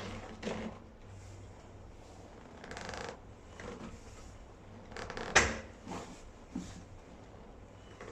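Gym weight machine being set up and handled: scattered creaks, scrapes and knocks of metal parts, with one sharp clank about five seconds in.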